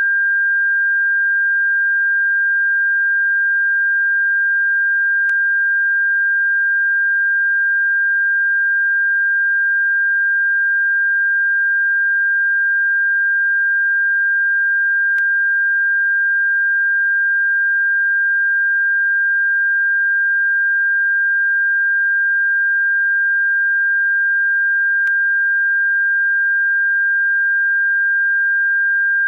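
Synthetic bird-repellent tone: one steady, unchanging high-pitched sine tone, with a faint click about every ten seconds.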